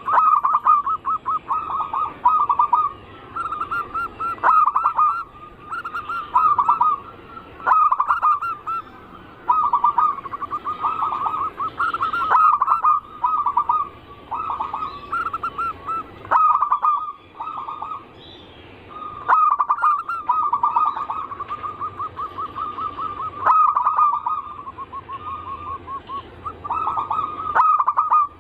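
Zebra doves (perkutut) cooing: rapid rolling coo phrases, one after another with short pauses, through the whole stretch.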